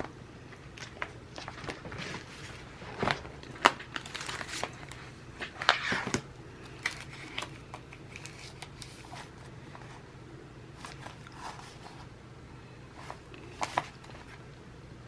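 Paper and sticker sheets being handled: irregular crinkling and rustling with light clicks and taps, the busiest stretch a few seconds in.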